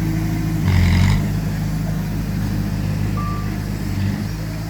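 Heavy diesel machine engine running steadily, with a short burst of hiss about a second in and a single reversing-alarm beep a little past the middle.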